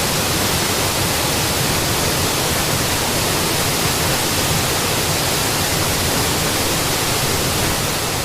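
Mountain waterfall: a steady rush of falling water, beginning to fade out near the end.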